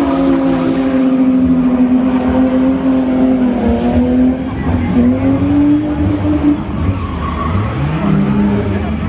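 Drift cars' engines revving, the engine note rising and falling as the throttle is worked; about eight seconds in, two engine notes cross, one climbing and one dropping.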